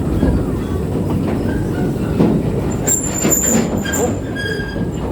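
A passenger train running on the track, heard from aboard: a steady rumble and clatter of wheels on rail. High-pitched wheel squeal comes in about three seconds in and lasts a second or so.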